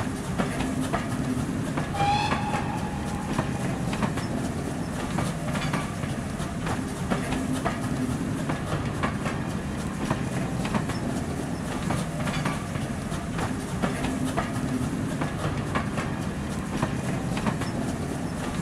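Passenger train carriages passing close by, a steady rumble with the wheels clicking over rail joints at a regular beat. A brief high tone sounds about two seconds in.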